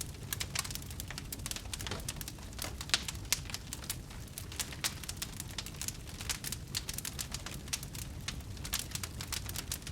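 Wood fire burning, crackling with many quick irregular pops over a low steady rumble, one pop louder about three seconds in.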